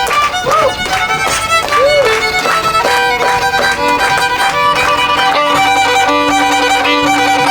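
Fiddle music: a violin plays with a couple of sliding notes in the first two seconds, then longer held notes.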